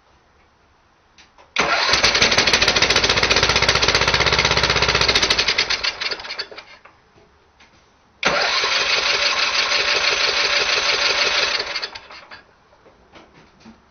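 10 hp Tecumseh go-kart engine being cranked over and firing in two bursts of about four seconds each, each fading out as the engine dies. The cold engine is only firing on starting fluid and will not keep running.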